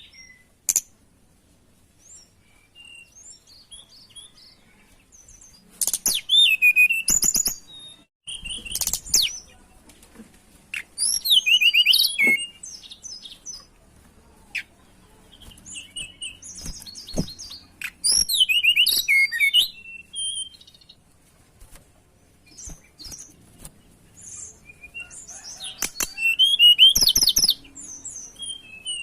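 Tledekan songbird singing in repeated bursts of high, fast, trilling notes, each phrase lasting one to two seconds and coming every few seconds, with faint short calls and a few sharp clicks between phrases.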